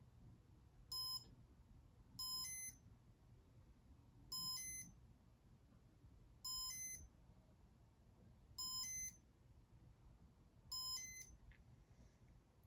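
Six short electronic beeps, evenly spaced about two seconds apart, from a Casablanca Comfort-Touch electronic ceiling fan control, over a faint low hum.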